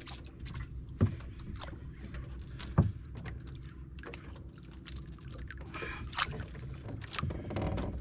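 Small fishing boat at sea: a steady low hum, with two sharp knocks about one and three seconds in and scattered clicks and rattles.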